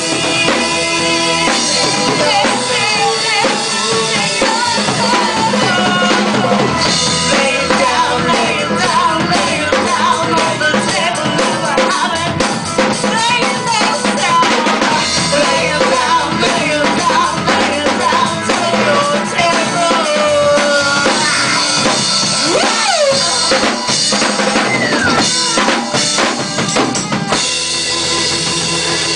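Live rock band playing, with a drum kit keeping the beat under guitar and other instruments.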